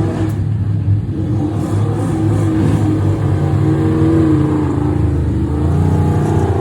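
Racing car engine running steadily with a low, even note, its pitch wavering only slightly.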